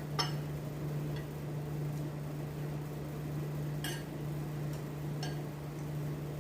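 A steady low machine hum, with a few faint, light clicks scattered through it.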